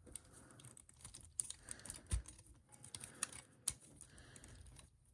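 Handling of a plastic action figure and its accessories: light rustling with scattered sharp plastic clicks as parts are fitted and pegged on.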